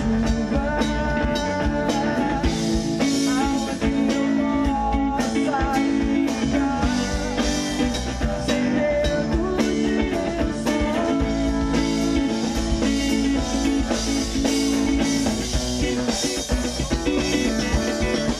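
A live band playing a pop-rock song, with guitar, bass and drum kit, and a wavering melodic lead line over them.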